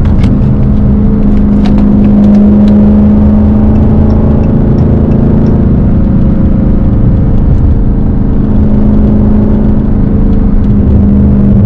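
Straight-piped Dodge Hellcat's supercharged V8 running loud at steady revs: a deep, even drone that barely changes pitch.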